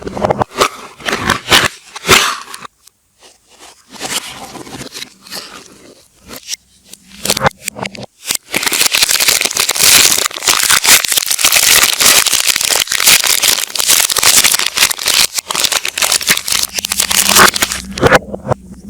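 Soap packaging being handled and opened: crinkling and rustling, scattered and stop-start at first, then dense and continuous through most of the second half before thinning out near the end.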